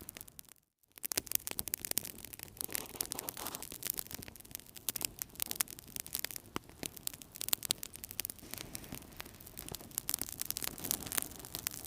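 Wood fire crackling in a fireplace: a steady stream of sharp, irregular pops and snaps over a soft hiss. The sound drops out briefly a little under a second in, then resumes.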